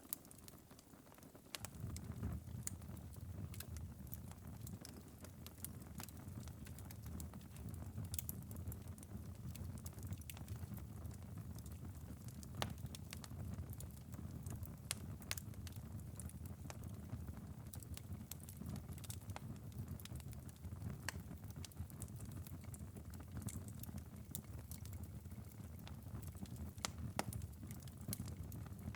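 Wood fire in a fireplace burned down to a glowing ember bed, with scattered sharp crackles and pops over a low rumble. The rumble comes in about a second and a half in.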